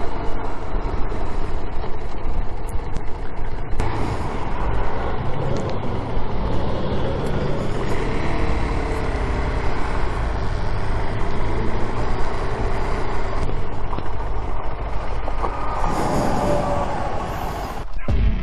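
Car on the road: steady engine and tyre noise with a strong low rumble.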